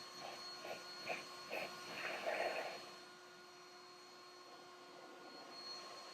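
Leaf blower running steadily with a constant motor whine, air blasting off the truck's panels. A run of short pulses of air noise in the first half, loudest about two seconds in.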